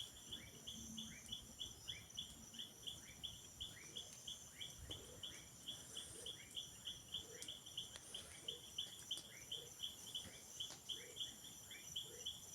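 Night chorus of insects: a regular high chirping about four times a second over a steady high-pitched trill, with fainter short rising chirps repeating behind it.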